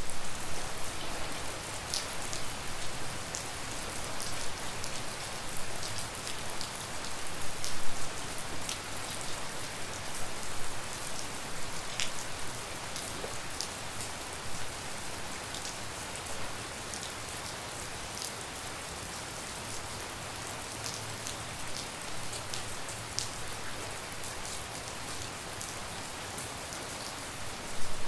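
Steady rain falling, an even hiss dotted with many sharp individual drips close by, a little heavier in the first few seconds.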